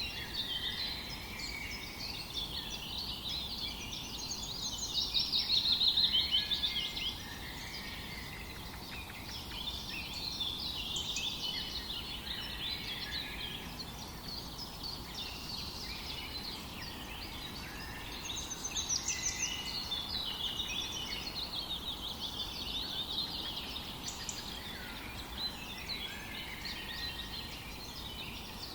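Several birds singing and chirping at once, their calls overlapping without a break; a louder run of rapid chirps comes about six seconds in.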